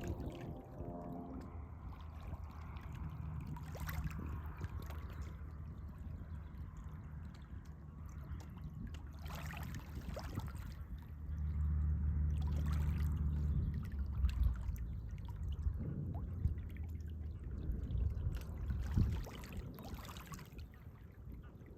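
Canoe paddles dipping and splashing in the water every few seconds, over a steady low rumble that swells for a few seconds midway.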